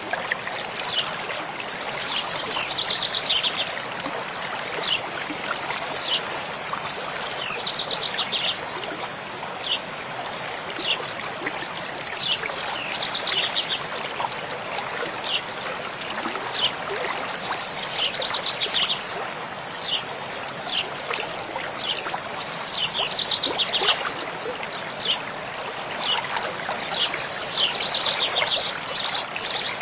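Mountain stream flowing steadily, with songbirds singing short phrases of quick high notes every few seconds over the water.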